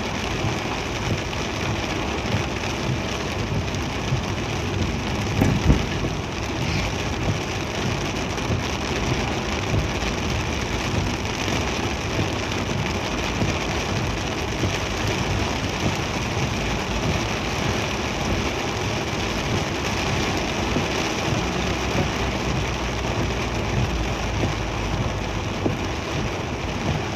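Heavy rain pouring down on a moving vehicle, a dense steady hiss, with one brief louder thud about five and a half seconds in.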